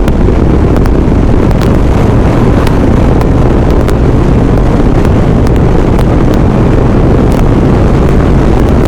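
Strong gusting wind battering the microphone of a motorcycle rider at speed in a sandstorm, over the steady drone of the motorcycle's engine, with scattered sharp ticks.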